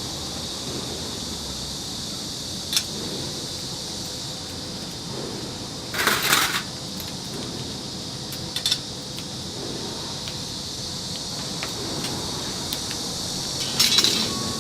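Metal clinking and rattling in a few short bursts, the longest about six seconds in and another near the end, over a steady hiss.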